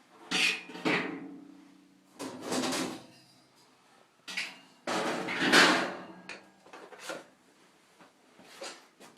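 Sheet-metal scraping and clattering as a furnace filter and its metal cover are worked out of the furnace cabinet, in several bursts with a brief ringing of the metal; the filter is clogged solid with dirt.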